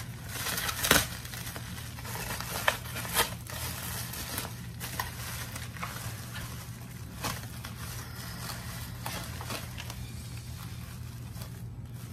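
Plastic packaging crinkling and rustling as it is pulled open and unwrapped by hand, with sharp crackles that are loudest in the first few seconds.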